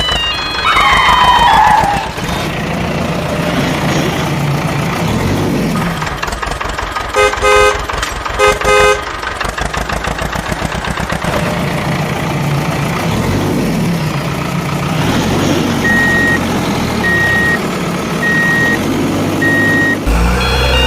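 Cartoon vehicle sound effects: an engine running and revving up and down, with a falling whistle at the start, two loud horn honks about a third of the way in, and four short evenly spaced beeps near the end.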